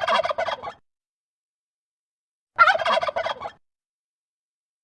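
Domestic turkey gobbling twice: a rapid, warbling call about a second long at the start, repeated about two and a half seconds in.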